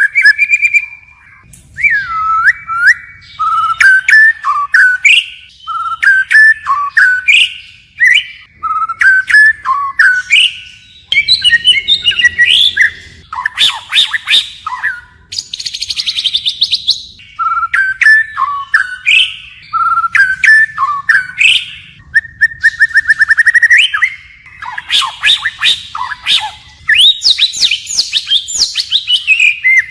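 White-rumped shama singing a long, varied song: short phrases of clear whistles, swooping notes and rapid trills with brief pauses between them, and a harsh rasping note about halfway through.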